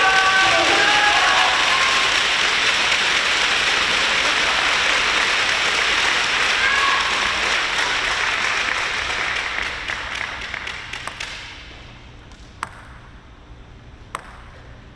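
Crowd applauding and cheering after a table tennis rally, with a few shouts at the start, dying away about twelve seconds in. Two sharp single ticks come near the end.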